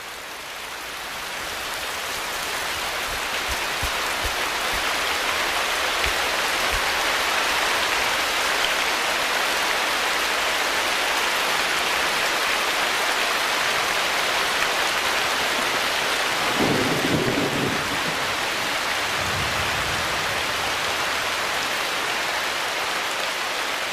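Heavy tropical rain pouring down steadily, building up over the first few seconds. A low rumble of thunder comes about two-thirds of the way through.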